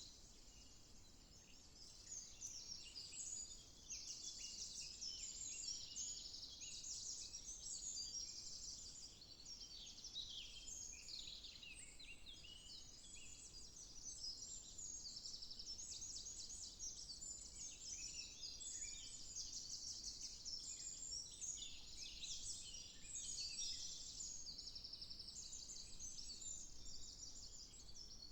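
A dawn chorus of many small songbirds singing over one another, a dense mix of high chirps and rapid trills.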